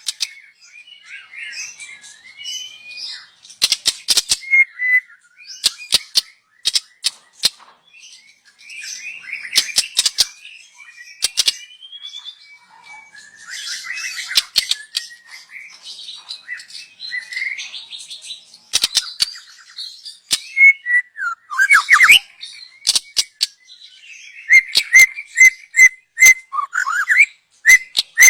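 Young white-rumped shama (murai batu) singing: varied whistled and chirping phrases broken by short gaps and many sharp clicks. Near the end come rapid runs of repeated whistled notes and downward-sweeping whistles.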